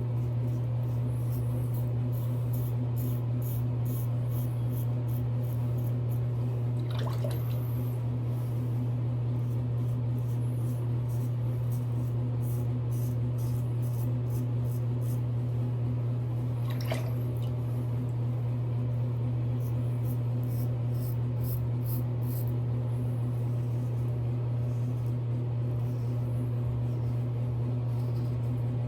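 A steady low hum, with faint rapid scraping strokes of a double-edge safety razor across lathered stubble and two brief louder swishes about 7 and 17 seconds in.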